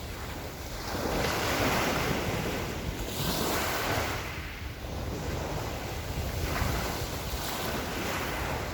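Small sea waves washing onto the shore in repeated swells that rise and fall every few seconds, with wind rumbling on the microphone.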